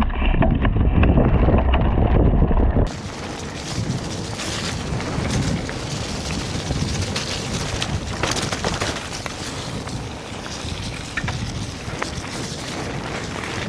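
A mountain bike being ridden along a trail: wind buffeting the microphone, tyres rolling over the ground, and the bike's frame and drivetrain rattling with frequent small clicks. For about the first three seconds the sound is a heavy, muffled rumble; after that it is a brighter, hissier rush.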